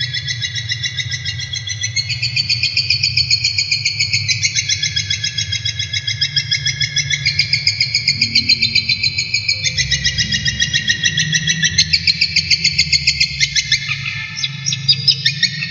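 Cendet shrike singing a fast, continuous chattering song of rapidly repeated high notes, about five a second, the pattern shifting in pitch every few seconds, over a steady low hum.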